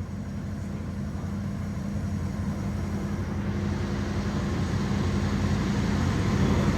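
Ducati V4 SP's V4 engine with an Arrow titanium exhaust running under load on a dynamometer, growing steadily louder through the run.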